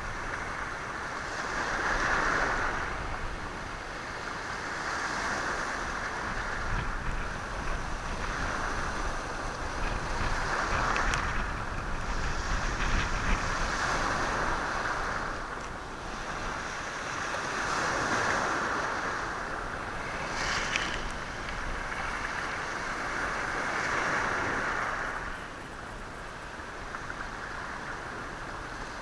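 Sea waves breaking and washing over a stony shore, swelling and ebbing every few seconds, with a few short clicks of stones knocking together.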